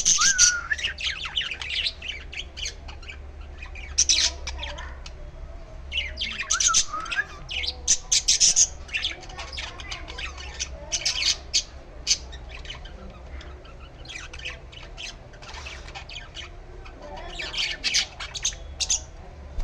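Young bird squawking in repeated bursts of rapid, shrill calls every couple of seconds, with a steady low hum underneath.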